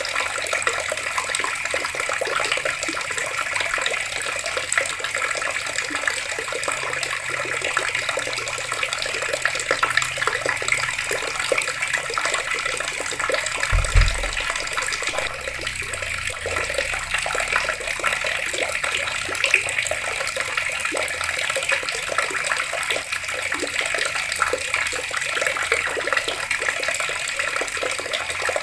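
Water running steadily from taps and splashing, an even rushing hiss. A brief low thump about halfway through.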